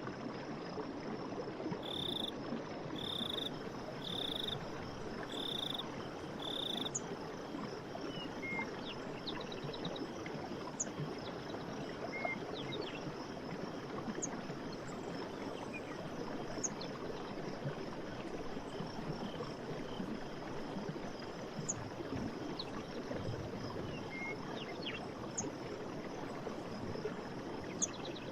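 Forest stream running steadily. About two seconds in, an animal gives five short high calls roughly a second apart, and brief chirps sound now and then afterwards.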